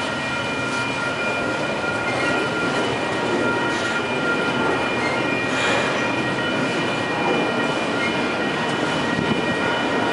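A Union Pacific double-stack container freight train rolls past, its wheels making a steady rumble and clatter on the rails. A steady high-pitched ringing tone runs over it throughout.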